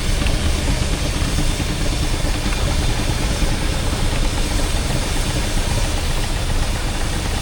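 Steam engines running in the arena: a steady, heavy low rumble with no clear beat or sudden sounds.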